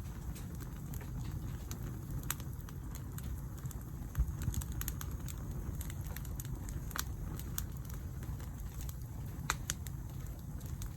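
Wood fire burning on a stainless steel mesh sheet, with scattered sharp crackles and pops over a steady low rumble.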